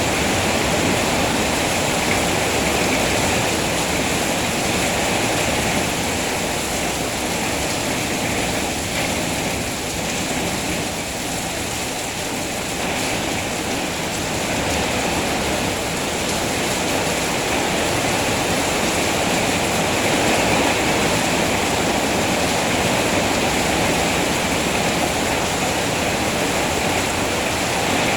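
Heavy rain falling steadily, a dense even hiss that eases a little about ten seconds in and then comes back up.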